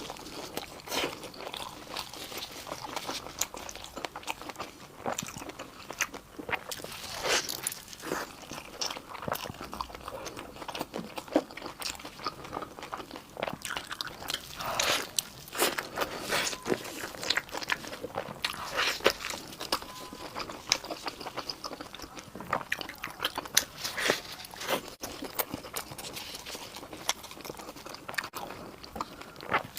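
Close-miked eating: a person biting and chewing food, with irregular crunches and wet chewing smacks.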